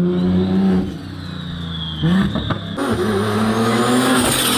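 A car engine running, then revving up about two seconds in and staying loud, with more hiss for the rest.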